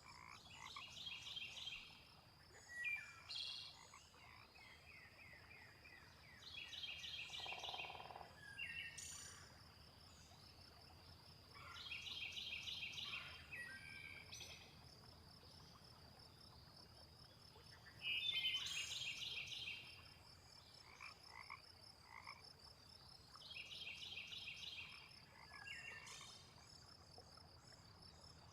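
Frogs croaking in a chorus: a trilled call comes back every five to six seconds over a faint, steady high-pitched tone.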